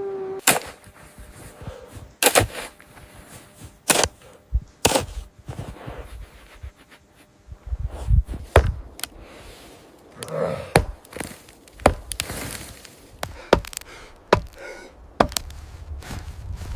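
Repeated sharp thunks of wood being struck, a dozen or so at uneven intervals, a few landing with a heavier low thud.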